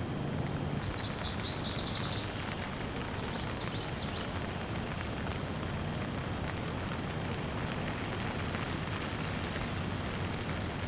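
Steady light rain falling, with a bird giving a quick run of high chirps about a second in and a few more chirps a couple of seconds later.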